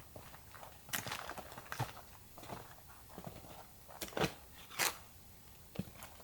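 A hiker's footsteps on a snowy mountain trail: irregular steps roughly one a second, the loudest about four and five seconds in.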